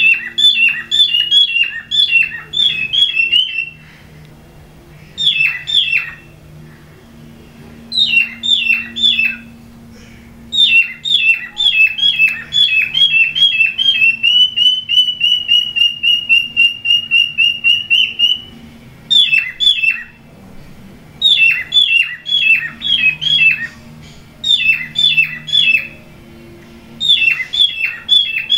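Cockatiels giving rapid runs of short, sharp, downward-sweeping chirps in bursts of a few seconds. Midway there is one longer stretch of quick, even, repeated notes. These are calls given while the pair mate.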